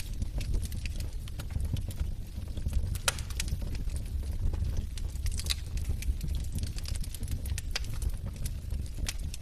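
Log fire crackling: irregular sharp snaps and pops over a steady low rumble of the flames, with the loudest snap about three seconds in.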